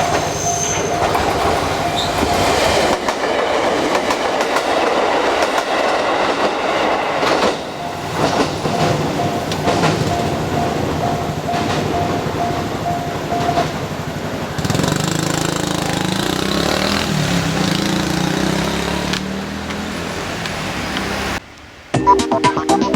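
An electric train runs over a level crossing with a steady clatter of wheels over the rail joints, while the crossing's warning bell rings with a repeating single tone. About 21 seconds in, the sound cuts off abruptly and music begins.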